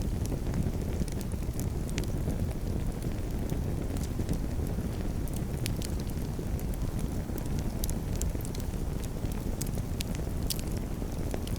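Campfire burning with a steady low rumble of flames and scattered sharp crackles and pops from the burning wood.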